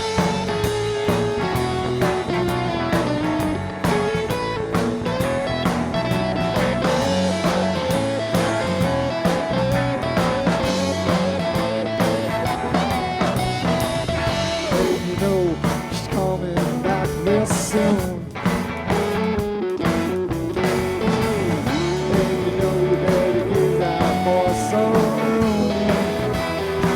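Live blues-rock band playing an instrumental solo break, with a lead line bending in pitch over the steady guitar, bass and drums.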